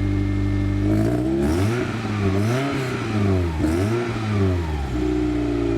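Toyota MR2 engine idling through its aftermarket exhaust, then revved several times in quick blips from about a second in, dropping back to a steady idle near the end.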